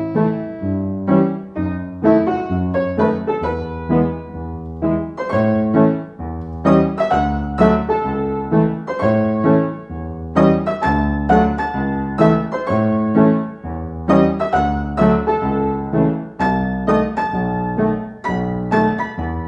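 Background music: solo piano playing a steady flowing pattern of notes over held bass notes.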